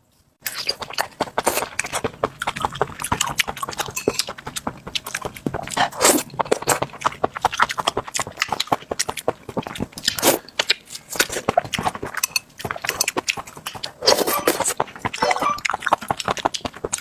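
Close-up wet chewing and mouth smacking while eating raw live octopus: a dense run of irregular clicks and squelches, with a few louder bites and slurps along the way.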